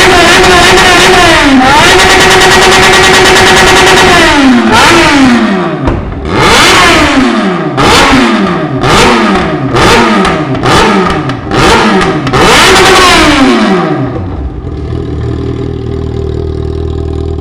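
Yamaha XJ6 motorcycle's inline-four engine through a 4-into-1 exhaust, revving loud: held at high revs for about four seconds, then about six quick throttle blips roughly a second apart, each falling away fast, before dropping to a steady idle near the end.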